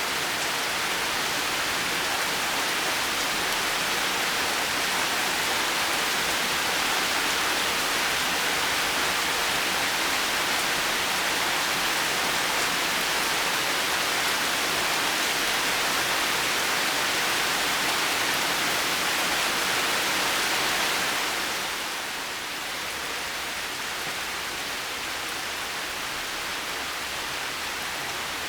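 Heavy rain falling steadily in a dense, even hiss. It eases a little about three-quarters of the way through, becoming softer and less bright.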